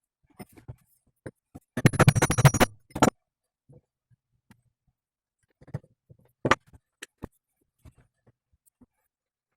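Metal knocks and rattles from hand-tool work on a driveshaft universal joint: a dense, rapid rattling run of strikes lasting under a second, a sharp knock right after it, another sharp knock past the middle, and a few lighter clicks.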